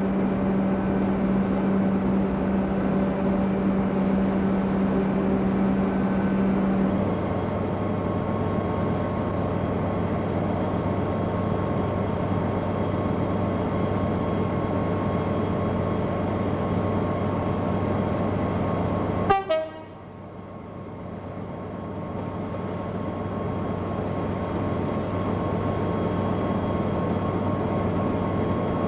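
A locomotive running with a steady pitched drone that drops to a lower pitch about seven seconds in. About two-thirds of the way through comes a single sharp click, and the sound dips and then returns.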